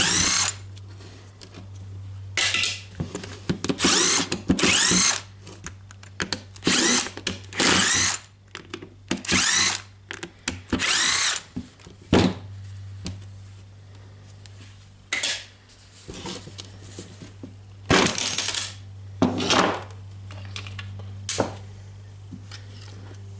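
Cordless electric screwdriver running in a dozen or so short bursts, each a whine that rises and falls as it spins up and stops, backing out the screws of a rotary hammer's motor housing. The bursts come close together at first and more sparsely later, over a steady low hum.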